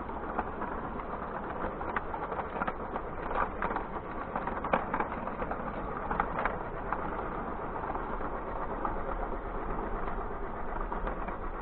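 Battery-powered O scale toy train running on its track while hauling a long string of cars: a steady motor and wheel rumble with frequent light clicks.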